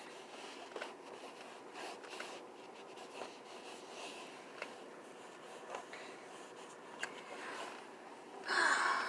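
Wipe rubbing and scrubbing over car interior surfaces such as the steering wheel, with scattered small clicks and taps, and a louder brief rustle near the end.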